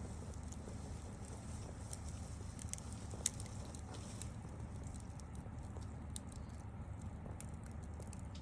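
Wood bonfire burning, with scattered crackles and snaps over a low steady rumble and one sharp pop about three seconds in.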